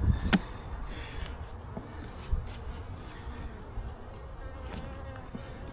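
Honeybees buzzing around an open hive box, their hum rising and falling in pitch as bees fly past, with one sharp click just after the start.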